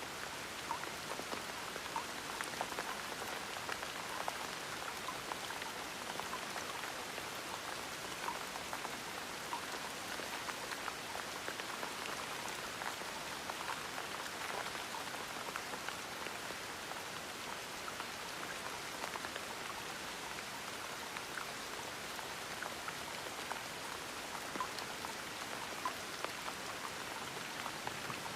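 Gentle rain falling steadily, an even hiss with many small individual drops pattering on a surface.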